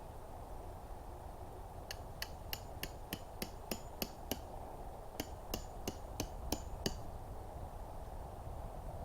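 Rapid metallic hammer blows with a bright ring, about three a second, in two runs of around nine and six strikes with a short pause between.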